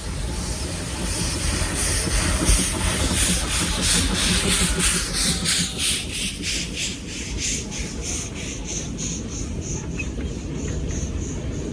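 Narrow-gauge NA class 2-6-2T steam locomotive 8A chuffing past, its exhaust beats coming steadily at about two to three a second over a low rumble. The beats are loudest in the first half and fade as it draws away.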